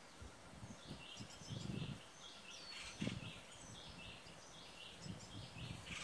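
Birds calling: a quick run of short, high calls, several a second, starting about a second in, with a dull low thump about halfway through.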